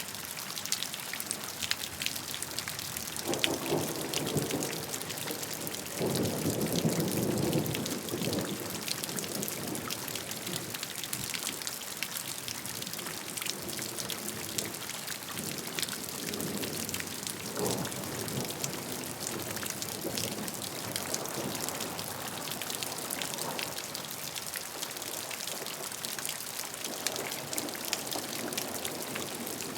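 Steady rain falling, with many separate drops ticking against a surface over the hiss. A few lower swells of sound rise and fade, the loudest about six to eight seconds in.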